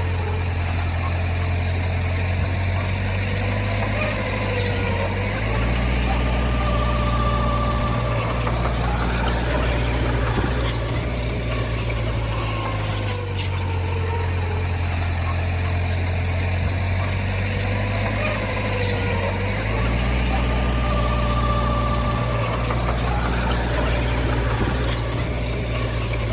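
Heavy diesel earthmoving machinery running steadily: a deep engine rumble with a fainter whine that slowly rises and falls.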